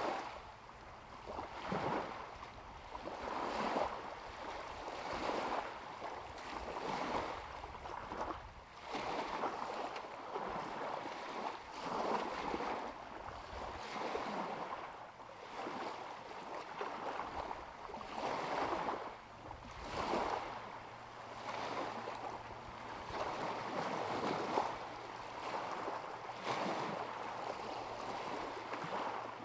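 Small lake waves lapping against the shore, a wash of water swelling and falling back about every one to two seconds.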